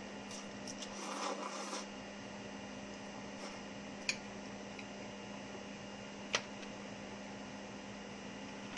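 Quiet room tone with a steady low hum. A short rustle comes about a second in, and two sharp clicks follow, a couple of seconds apart, near the middle.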